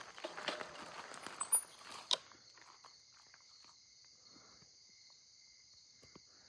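Crickets chirping in a steady high chorus, with crunching, rustling footsteps for the first two seconds that end in a sharp click; after that only the crickets are heard.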